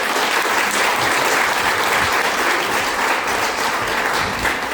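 Audience applauding steadily at the end of a theatre scene.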